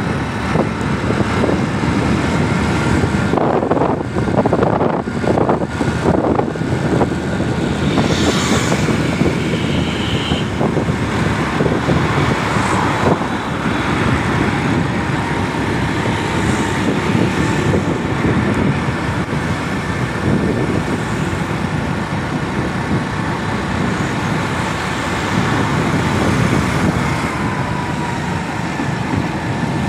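Steady street traffic noise of vehicles running, with a short high tone about ten seconds in.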